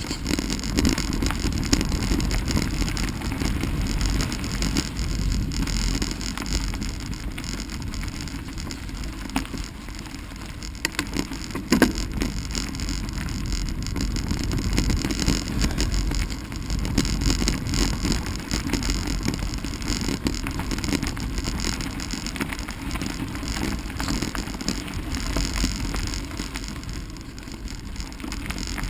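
Bicycle rolling along a rutted dirt trail: steady tyre and frame rattle with wind buffeting the microphone. A sharp knock about twelve seconds in.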